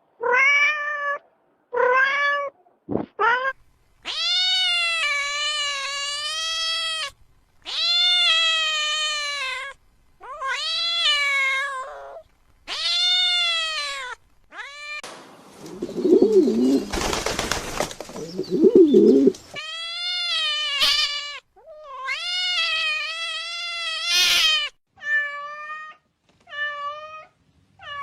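A cat meowing over and over in long, drawn-out calls of one to three seconds each. A noisy stretch with a lower warbling sound comes about halfway through.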